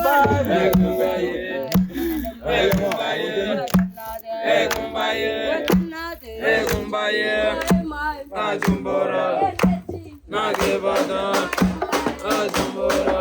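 A group of voices singing a chant together, with a short low thud about once a second keeping the beat.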